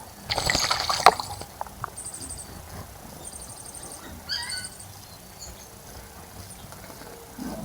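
Water splashing as a bird bathes in a bird bath, loudest for about a second near the start. Then high, thin bird chirps, and a short call of falling notes a little past the middle.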